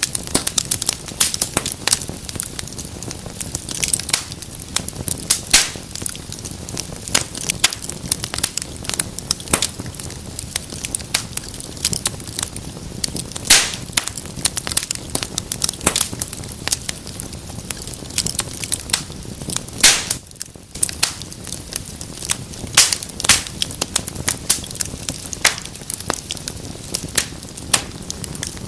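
Wood fire in a fireplace burning steadily, with irregular sharp crackles and pops over a low hiss.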